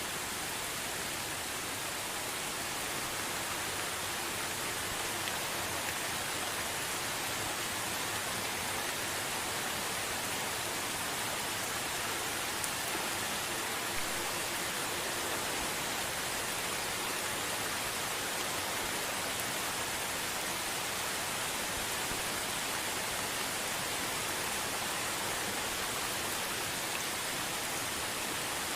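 Gentle rain falling steadily, an even hiss of many drops with no thunder, and a couple of slightly louder drop ticks about halfway through.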